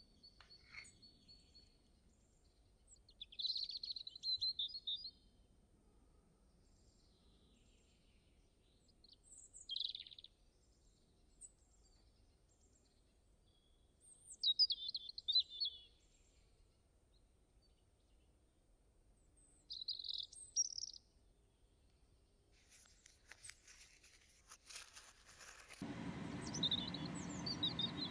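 A small bird chirping in short bursts of song every few seconds over a quiet background. Near the end a steady rushing noise comes in.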